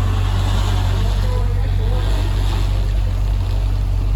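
Car engine idling with a steady low rumble, with faint voices in the background.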